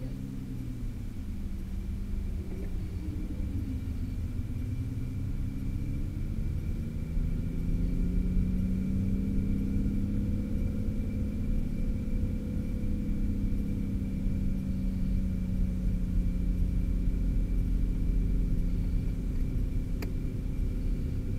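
Aston Martin V12 engine heard from inside the cabin, pulling along at low revs. The low drone rises and falls gently in pitch and grows louder about seven seconds in.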